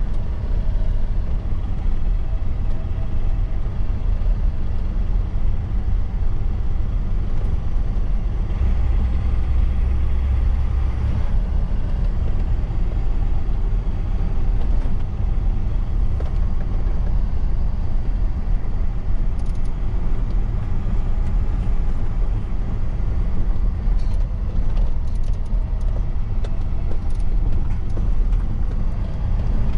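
Truck engine and road noise while driving, a steady low drone. About nine seconds in, the low rumble swells for a couple of seconds before settling back.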